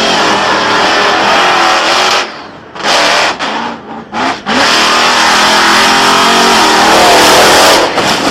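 BIGFOOT monster truck's engine revving hard at high throttle, dropping off briefly a few times between about two and four and a half seconds in, then running flat out again.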